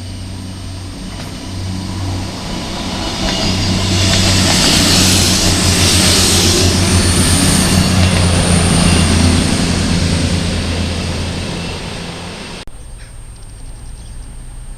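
A train passing through at speed: a low hum and a broad rush swell up, stay loud for several seconds, then fade. The sound cuts off abruptly near the end.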